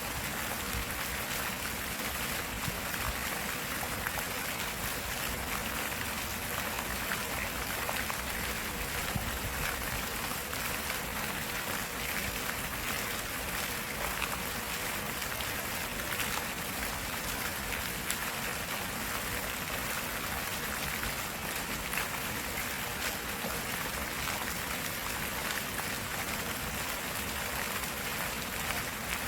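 Flowing water of a stream, a steady, even rushing with fine splashes.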